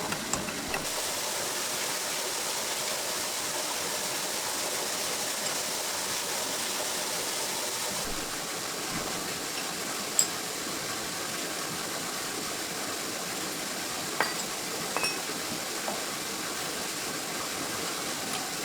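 Steady hissing noise with a few short clicks near the middle and later on.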